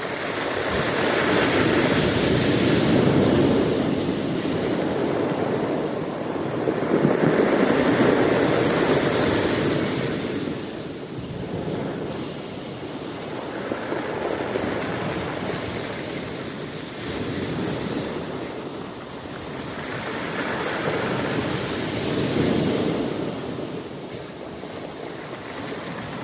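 Sea waves breaking and washing up the shore, the surf swelling and fading in slow surges every five or six seconds.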